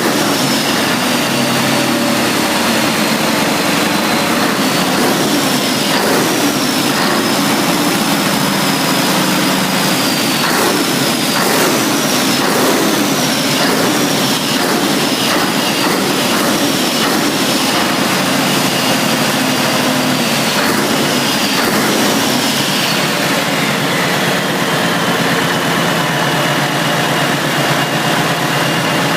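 Scania 114 DTC11 turbo-diesel engine running, its speed rising and falling repeatedly with a high whine that drops after each rise. The speed settles to a steady run about three-quarters of the way through.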